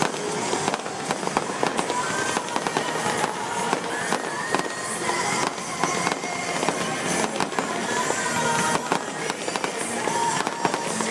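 Aerial fireworks bursting in quick succession: a dense, continuous run of sharp bangs and pops.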